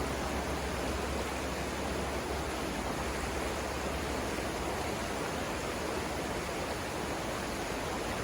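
River water rushing steadily over rapids, an even hiss with no breaks.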